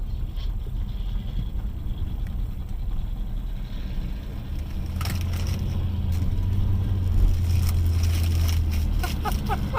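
Steady low rumble of a car on the road, with a sharp crack about five seconds in and a cluster of knocks and short squeaks near the end.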